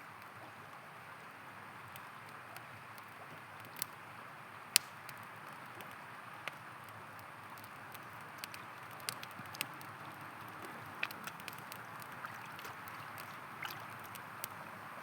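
Steady rush of a flowing river with a wood campfire crackling over it: scattered sharp pops and snaps, one much louder snap about five seconds in.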